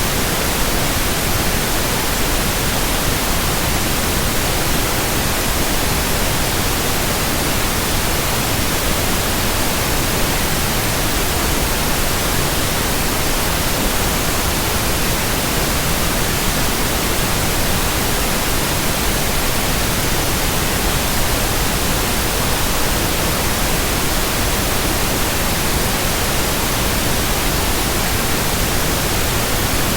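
Steady, unchanging white-noise hiss, spread evenly from low to high pitch with no hum, rhythm or separate sounds.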